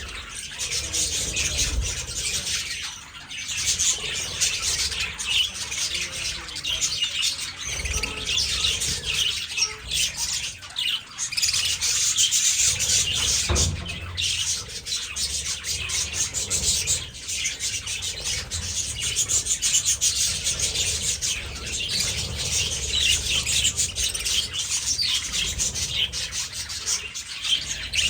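A flock of budgerigars chattering and chirping continuously, a dense mass of rapid high calls and squawks, with a few brief low knocks.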